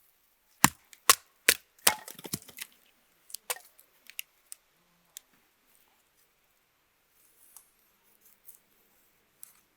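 A run of sharp knocks and clicks of hard objects being handled, about eight in the first three seconds, then a few scattered ones and near quiet.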